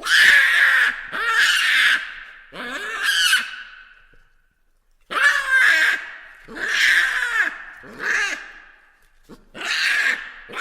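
Baboons calling: a run of loud, harsh calls, each under a second long, with a short pause about four seconds in.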